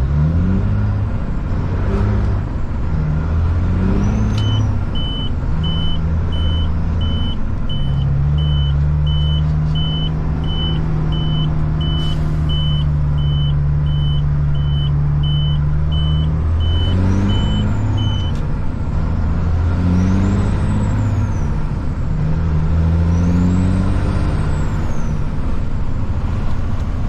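Caterpillar C-15 inline-six diesel of a Kenworth truck heard from inside the cab, pulling up through the gears of its automated transmission. The engine note climbs, drops back at each shift and climbs again, with a long steady stretch in the middle. A steady ticking, about one and a half times a second, runs from about four seconds in until about eighteen seconds.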